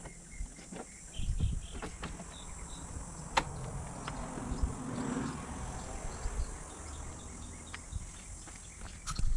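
Outdoor background of steady insect chirping, with scattered light clicks and knocks, a sharper click about a third of the way in, and a soft swell of noise around the middle.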